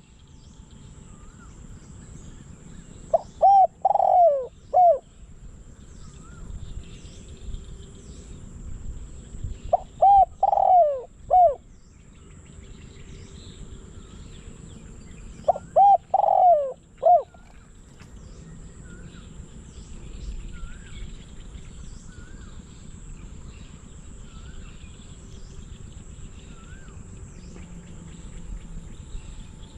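Decoy spotted dove cooing its song phrase three times, each a short run of several hooting notes, about six seconds apart. Faint small-bird chirps and a thin steady high-pitched buzz run underneath.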